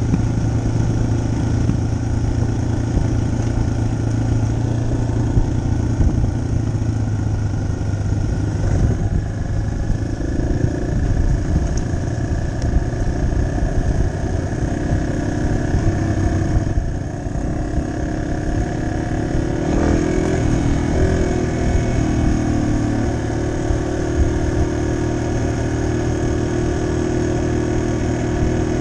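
Yamaha XT250's air-cooled single-cylinder engine running under way, with shifts in engine pitch about ten and twenty seconds in.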